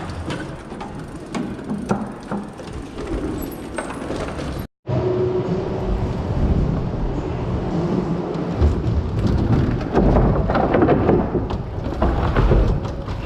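Dirt-jumper mountain bike being ridden over indoor trail features, heard up close: rumbling tyre and frame noise with jolts and rattles. The sound cuts out for a moment about five seconds in, and the rumble is heavier in the second half.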